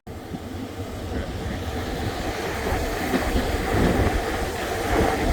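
Passenger train running along the rails, a steady low rumble with wheel clatter, growing slowly louder.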